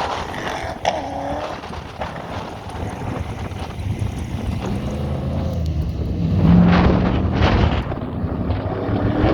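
A race vehicle's engine running on the autocross course, swelling to its loudest about six and a half seconds in as it passes, with wind buffeting the microphone.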